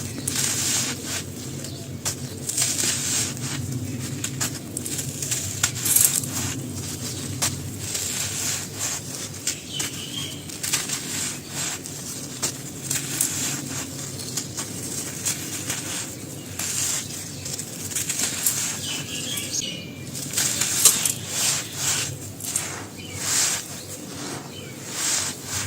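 Dry, brittle black grainy material topped with white stones being broken and crumbled, giving dense, irregular crisp crackles and snaps with a few louder cracks.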